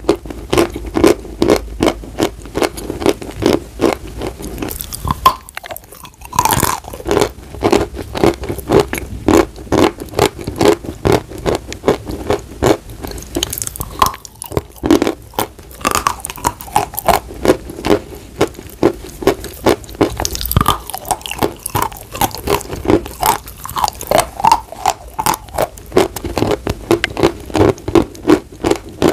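Dry chalk being bitten and chewed: a steady run of crisp, gritty crunches, about two a second, with short pauses where a fresh piece is bitten off.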